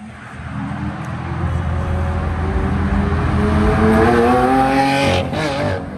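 A car accelerating hard, its engine note climbing steadily in pitch and growing louder for about four seconds, then wavering and breaking off near the end.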